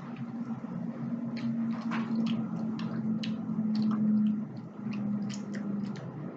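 Close-up eating sounds: wet chewing clicks, smacks and squishes of a small snack being bitten and chewed, irregular and quick, over a low steady hum that is loudest about four seconds in.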